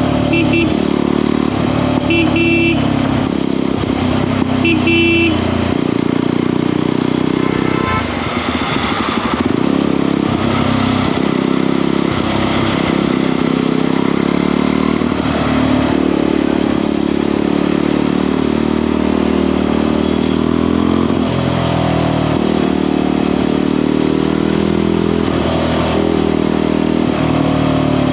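Motorcycle engine running steadily under way, with three short horn beeps in the first five seconds and a brief drop in the engine note about eight seconds in.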